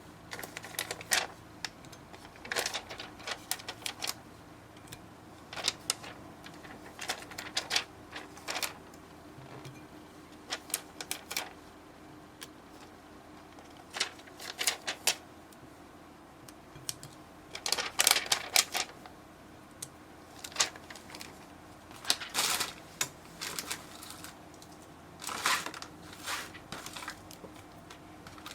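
Slime being squeezed and poked by hand, making bursts of quick crackling clicks and pops every second or two.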